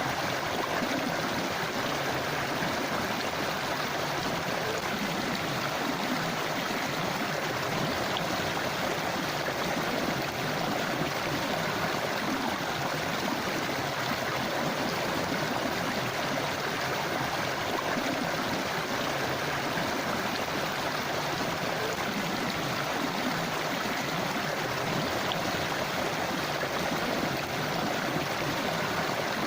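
A river or stream flowing steadily over rocks, a continuous rushing and gurgling of water.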